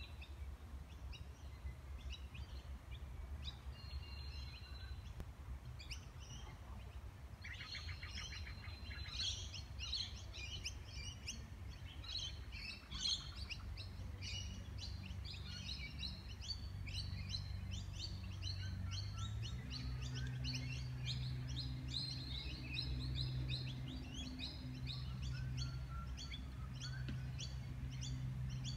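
Many birds chirping and singing, with dense short high calls overlapping throughout and a brief rapid trill early on. A low steady hum runs underneath and grows a little louder about two-thirds of the way through.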